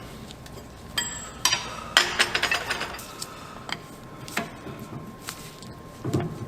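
Metal hand tools and differential parts clinking and clanking: a few sharp ringing strikes, then a quick rattling run of clinks, lighter taps, and a duller knock near the end.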